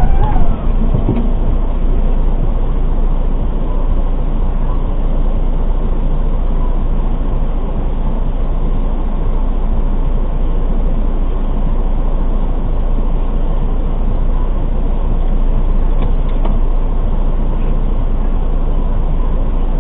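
Steady engine and road noise from a moving vehicle, heard from inside the cab through a dashcam's microphone.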